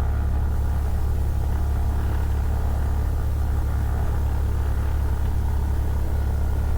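Cessna 172's piston engine running steadily at low taxi power, a constant low drone with no change in pitch.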